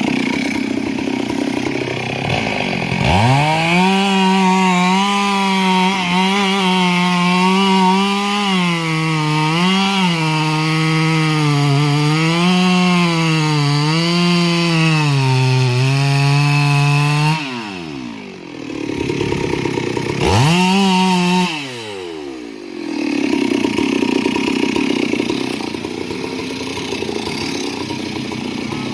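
Two-stroke chainsaw revving up about three seconds in and held at high speed for some fifteen seconds, its pitch dipping and recovering over and over as it cuts wood, then dropping back to idle. A second short rev comes near the twenty-second mark before it idles again.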